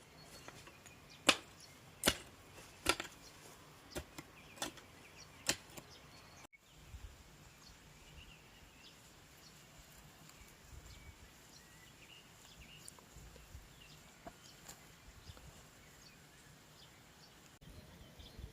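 Six sharp knocks or taps at uneven intervals in the first six seconds, then a faint outdoor background with low rumbles.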